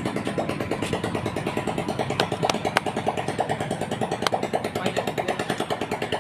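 Diesel tractor engine idling with an even, rapid chugging. A few sharp clicks come in the middle.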